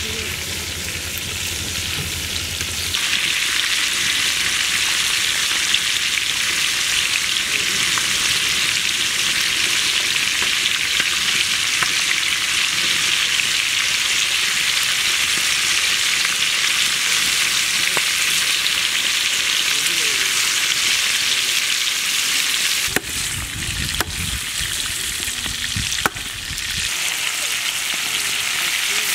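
Chicken legs shallow-frying in hot oil and butter in a flat pan: a steady, dense sizzle that grows louder about three seconds in. A few sharp clicks come near the end.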